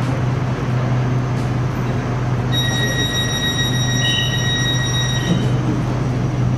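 Interior of an SRT Red Line electric commuter train: a steady low hum over the carriage's running noise. From about two and a half seconds in, a continuous high electronic beep sounds for nearly three seconds, then stops.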